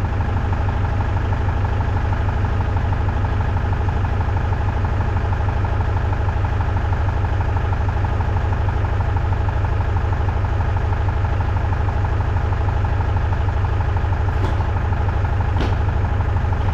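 Loader tractor's engine running steadily at an even speed, with a couple of faint clicks near the end.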